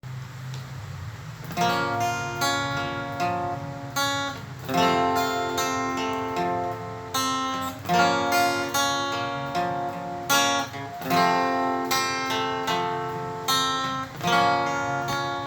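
Acoustic guitar playing an intro of strummed chords, starting about a second and a half in, in a steady repeating pattern.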